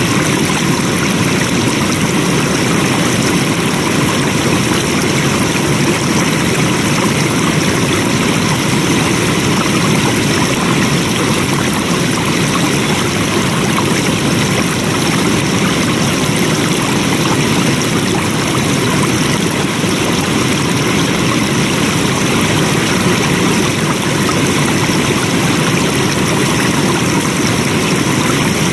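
Flowing water running steadily, an even, unbroken wash of sound with no breaks or changes.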